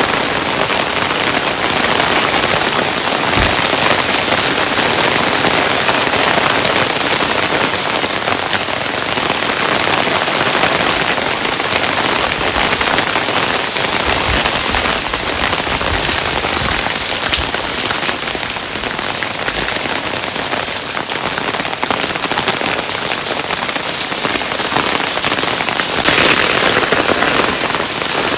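Hailstones falling steadily, a dense continuous patter of small ice impacts with an occasional heavier thud.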